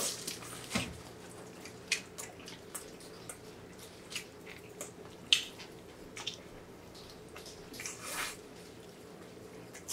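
Close-miked eating sounds: wet chewing and lip smacks of roasted pork belly and spicy cold noodles, with scattered short clicks, the sharpest about five seconds in.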